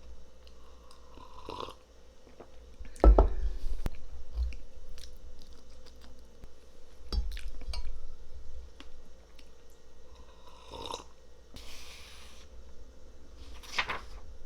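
Someone eating: chewing and crunching, with scattered small clicks and knocks and a louder knock about three seconds in.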